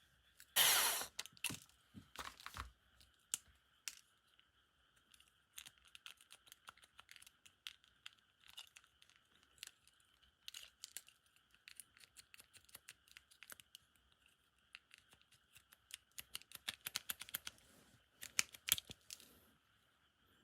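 Small clicks, scrapes and taps from working apart a die-cast toy car by hand, with a loud rasping scrape about half a second in and a quick run of clicks near the end, over a faint steady high hum.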